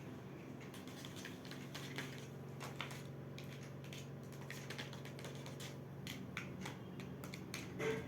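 School supplies and their packaging being handled: irregular light clicks and taps, over a steady low hum.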